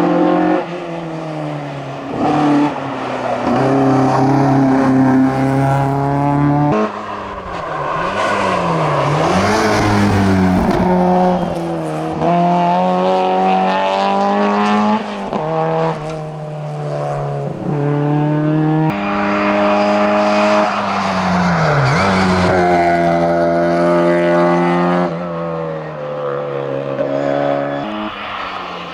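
Four-cylinder competition cars driven flat out on a hillclimb: an Opel Kadett GSI, then a Mini 1275 with its 1275 cc A-series engine. Each engine note climbs in pitch through a gear, falls at the shift and climbs again, over and over.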